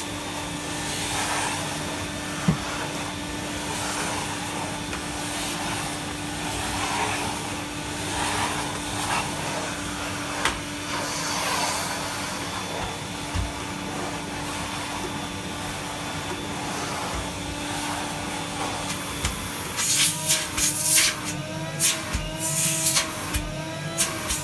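A 1975 Electrolux 302 cylinder vacuum cleaner running with a steady whooshing hum. In the last few seconds its pitch wavers up and down, with several sharp bangs and clatters.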